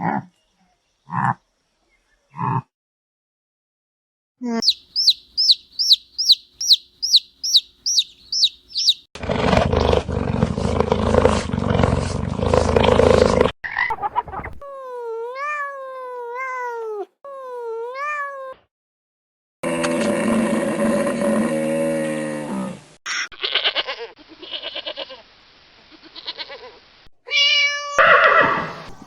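A string of different animal calls cut one after another: short calls, a run of about ten quick high chirps, a longer rough noisy stretch, then a few rising-and-falling calls and more calls near the end.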